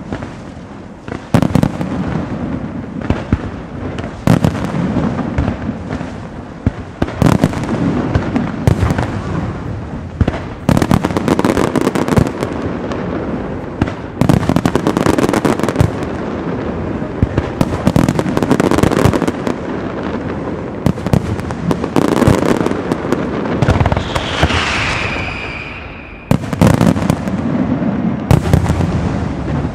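Castillo aerial fireworks display: a dense, unbroken run of bangs and crackling shells. About 24 seconds in, a whistle falling in pitch rises above the crackle for a couple of seconds before the bangs resume.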